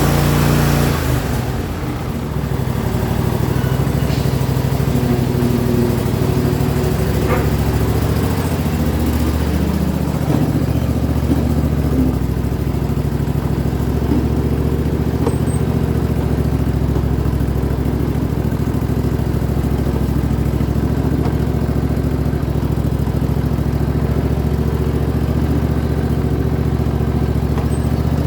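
A 25 hp Briggs & Stratton V-twin engine in an Allis-Chalmers AC130 garden tractor runs steadily, having just fired up on a cold start.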